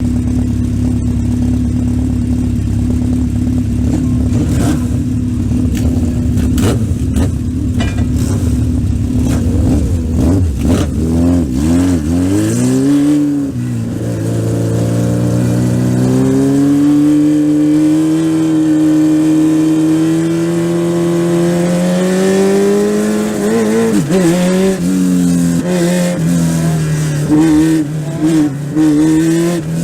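Legend race car's Yamaha motorcycle engine running at a steady pitch for about ten seconds, then accelerating, its pitch climbing gradually before dipping once at a gear change. Near the end the pitch rises and falls as the throttle is lifted and reapplied.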